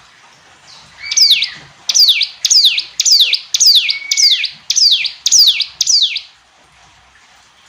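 Ciblek gunung, a prinia, singing a loud series of about ten sharp notes, each sliding down in pitch, roughly two a second, stopping about six seconds in.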